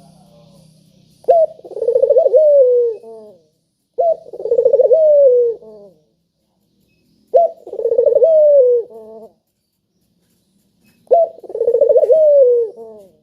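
Puter dove cooing four times, a few seconds apart: each call opens with a sharp note, rolls into a rapid pulsing coo, and ends in a few falling notes.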